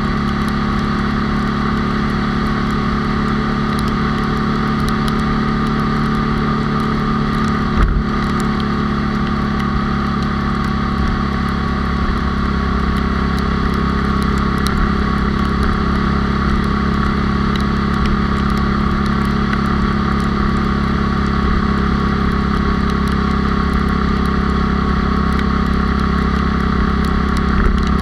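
Small four-stroke single-cylinder engine of a high-geared 97cc Honda Cub motorcycle running steadily at cruising speed, heard from on board with wind and road noise. A brief thump about eight seconds in.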